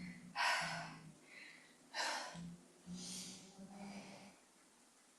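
A woman's heavy breathing from exertion while holding low squat pulses: three or four short, forceful breaths about a second apart.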